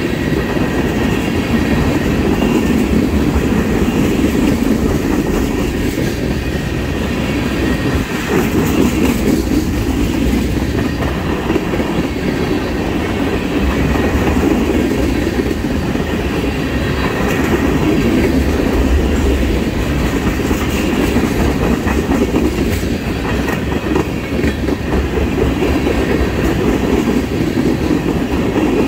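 Loaded tank cars of a freight oil train rolling past: a steady, loud rumble of steel wheels on the rails, with clicking as the wheels pass over rail joints.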